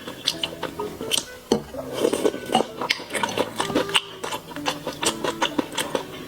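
Close-miked eating sounds: wet chewing and smacking with quick clicks of utensils against a bowl, irregular throughout, over background music.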